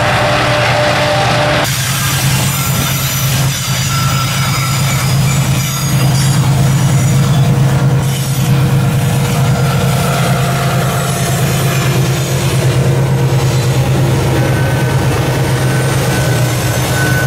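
Freight train passing close by: diesel locomotives for about the first second and a half, then hopper wagons rolling past on the rails with a steady low rumble and thin, on-and-off wheel squeal.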